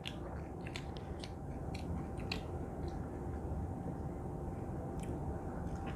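People chewing and eating steak and mashed potato close to the microphone, with scattered small clicks.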